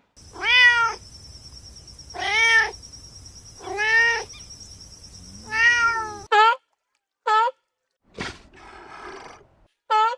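Domestic cat meowing: four drawn-out meows about a second and a half apart, then several shorter meows, with a single sharp knock in between.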